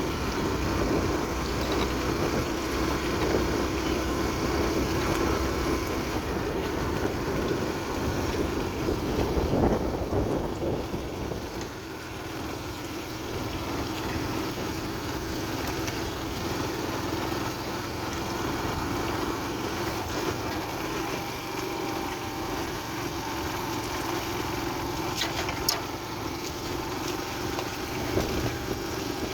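Motorbike engine running as the bike is ridden, its note easing off about twelve seconds in, with a few sharp clicks near the end.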